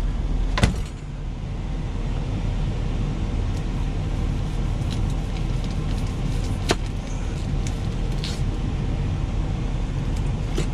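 Semi truck's diesel engine idling steadily, heard inside the cab, with two sharp clicks, one near the start and one about halfway through.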